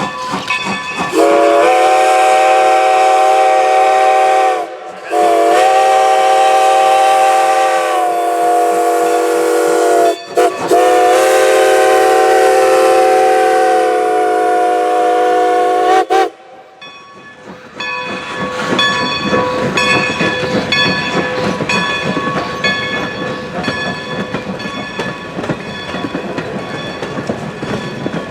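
Steam whistle of Strasburg Rail Road 2-10-0 steam locomotive #90 sounding loud, long blasts with a short one between, the grade-crossing whistle signal. It is followed by the train rumbling past with clickety-clack of wheels over rail joints.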